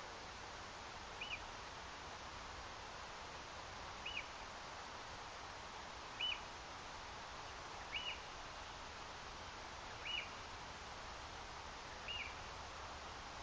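A bird repeating one short high call about every two seconds, six times, over a steady faint background hiss.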